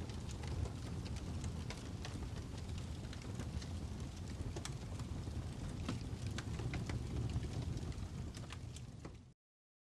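Crackling fire: a steady low rumble of burning with scattered sharp pops and snaps. It cuts off abruptly to dead silence about nine seconds in.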